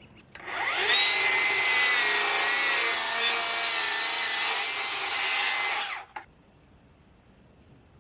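An electric saw spins up with a rising whine and cuts through a cedar board for about five seconds, then stops suddenly.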